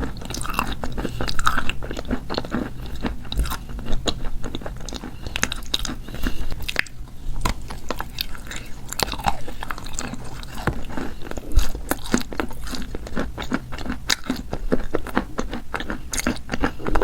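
Wet chalk coated with paste crunching up close: a dense run of crisp crunches, with a brief lull about seven seconds in.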